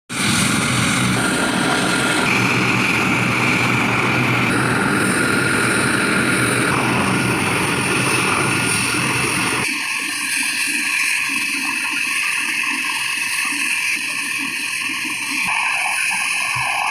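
Helicopter flying close overhead, a loud steady rush of rotor and turbine noise. About ten seconds in the low rumble drops away suddenly, leaving mostly the higher whine and hiss.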